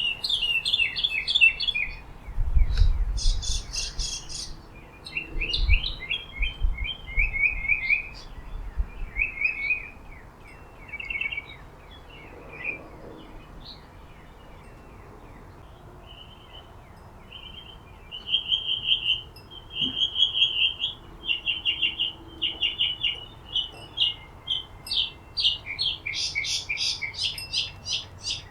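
Small songbirds chirping and singing, in quick runs of short descending chirps and brief trills, with a quieter lull midway.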